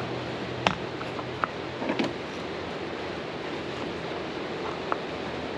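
A few sharp clicks and knocks of hard plastic parts being handled while a retractable tether is fitted under a kayak seat, over a steady hiss.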